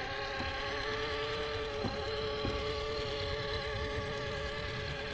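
Electric motor and gears of an RC rock crawler whining steadily as it crawls slowly over rock, with a few faint clicks of the tyres and chassis on stone.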